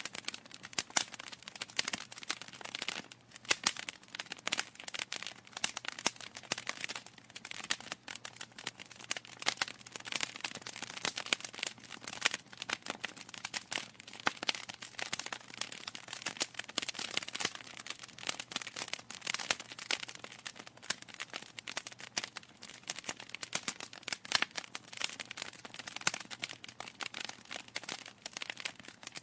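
Wood fire crackling in a fireplace: a dense, irregular run of sharp pops and snaps that never lets up, some louder cracks standing out.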